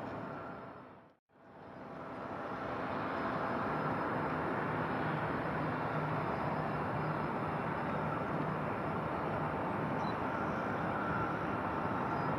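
Steady distant jet aircraft engine noise with a faint whine, dipping briefly to silence about a second in before returning.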